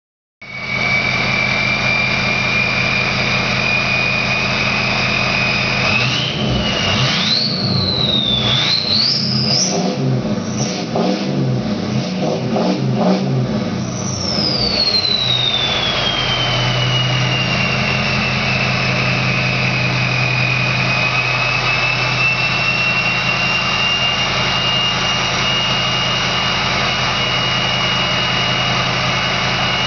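2003 Ford 6.0L Power Stroke V8 turbo diesel, straight-piped with its stock turbo, idling with a loud high-pitched turbo whistle. From about six seconds in it is revved repeatedly, the whistle climbing in pitch with the revs, and about fourteen seconds in the whistle falls away as the turbo spools down, settling back to a steady whistle over the idle.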